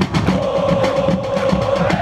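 Supporters' drums beating a steady rhythm in the stands, with a long held pitched note sounding over them from just after the start and rising a little near the end.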